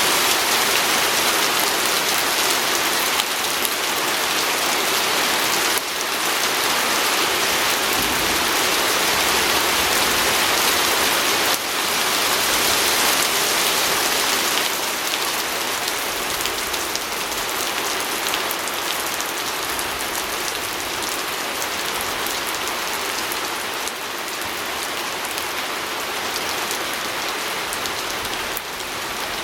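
Steady rain pattering on a window pane, a dense hiss of drops with fine individual ticks against the glass.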